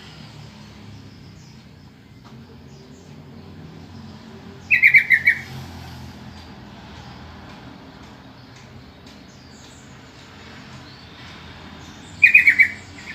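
Yellow-vented bulbul calling: two short bursts of about five quick, slightly falling notes, about five seconds in and again near the end, over a steady low background hum.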